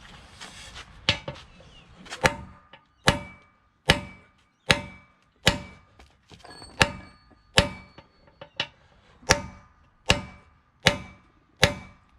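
Repeated hammer blows on steel, each with a short metallic ring, knocking a worn pin or bush out of the Bobcat 753 quick-attach. The blows become heavy and regular about two seconds in, at roughly one every 0.8 s, about a dozen in all.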